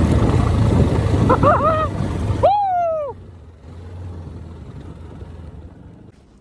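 Motorcycle engine revving hard and loud, cutting off abruptly about two and a half seconds in, with short falling shouts at the end; a low engine idle carries on quietly after.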